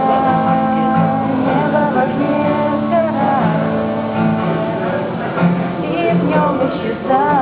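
Singing with strummed acoustic guitar accompaniment.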